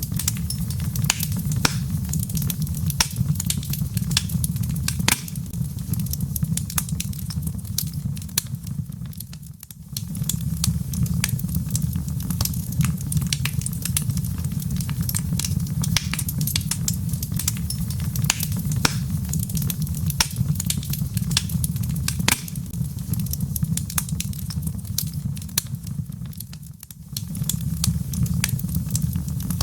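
Wood fire crackling: frequent sharp pops and snaps over a steady low rumble of burning logs. The sound dips briefly, then comes back, twice: about ten seconds in and near the end.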